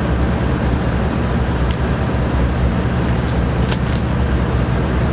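A steady low mechanical drone, like a motor running, with two brief clicks, one about two seconds in and one near four seconds.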